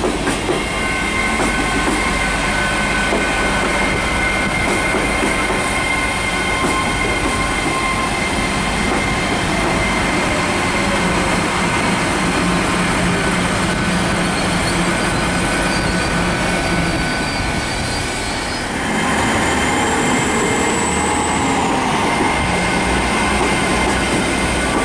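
Diesel passenger train running through a station: a steady engine note with long, high wheel squeal. In the last few seconds it grows louder and a high whine falls in pitch.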